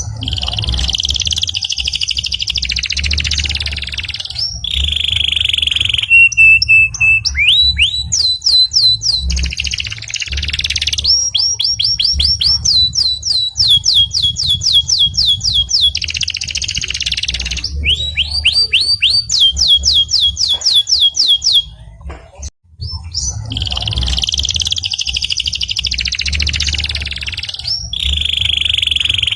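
Domestic canary singing a long song of rolls and trills: phrases of rapidly repeated rising notes, about ten a second, alternate with buzzy trills and a short held whistle. The song breaks off briefly about three quarters of the way through, with a low hum underneath throughout.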